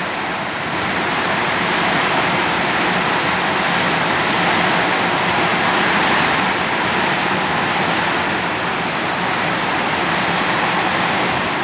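Heavy rain and strong wind making a steady, loud rushing noise that swells and eases slightly.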